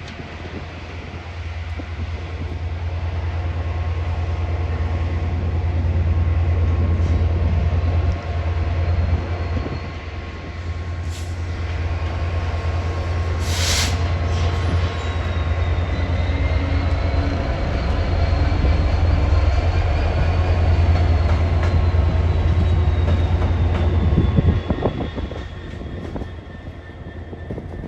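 A train running through a station: a deep steady rumble that builds up, holds, and falls away about three seconds before the end. A faint high whine rises and falls in the middle, and there is one short sharp burst about halfway through.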